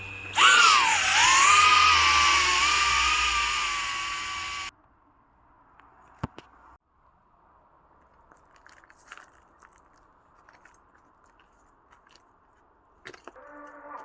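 Brushless motors of an iFlight Megabee 3 FPV drone whining loudly, their pitch jumping up, dipping and then holding steady, before cutting off abruptly after about four seconds. Near silence with a few faint clicks follows, and another steady tonal sound starts near the end.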